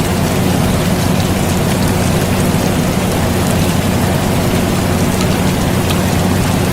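Air conditioner running with a steady low hum, mixed with steady rain falling, with faint scattered drop ticks.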